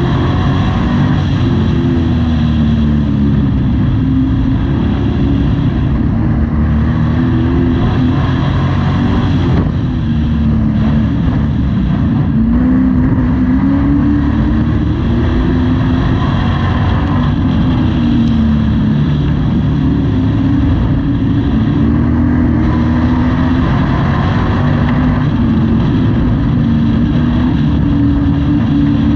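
Race truck engine heard from inside the cab, running hard and rising and falling in pitch about every six seconds as the driver accelerates down each straight and lifts for each turn of the short oval.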